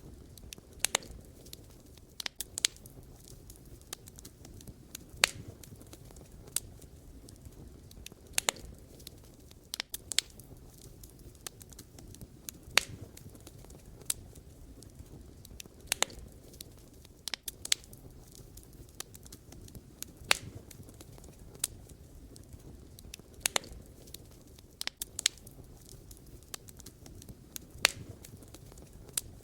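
Wood fire burning, with irregular sharp crackles and pops from the burning logs over a low steady rumble of flame.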